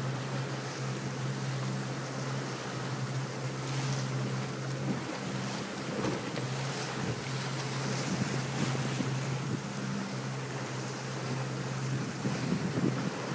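Motorboat engine running with a steady low drone, over the rush of water along the hull and wind buffeting the microphone.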